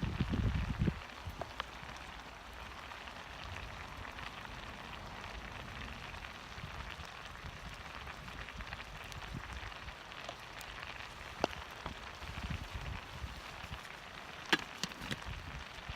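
Wood fire burning in a Firebox stove: a steady hiss with scattered sharp crackles and pops. A few low thuds come in the first second.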